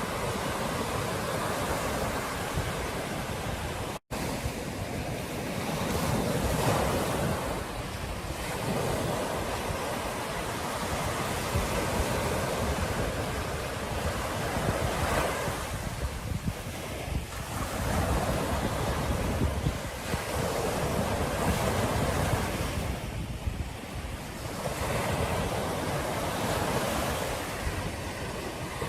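Ocean surf breaking on a beach, the wash swelling and easing every few seconds, with wind buffeting the microphone. The sound cuts out for an instant about four seconds in.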